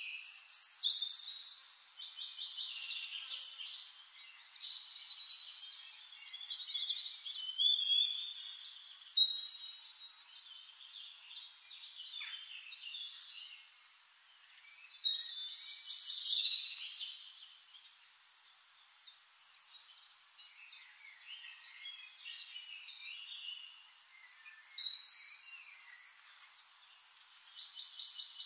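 Songbirds singing: varied chirps, trills and quick whistled phrases that overlap and come in bursts, with a few louder phrases standing out several times.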